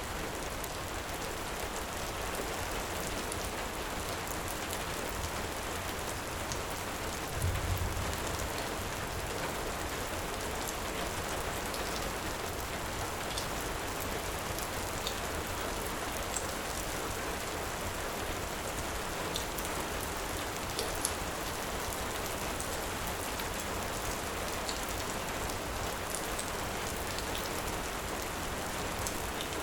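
Heavy rain falling steadily, mixed with the scattered small crackles of a fireplace fire. There is one brief low thump about a quarter of the way in.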